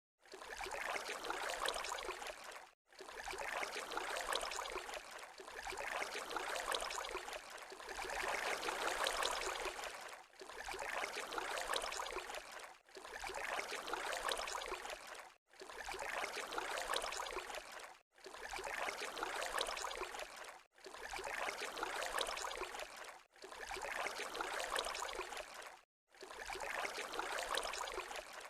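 Running water, a noisy splashing trickle that swells and fades in stretches of about two and a half seconds, with a brief silence between each, repeating about eleven times.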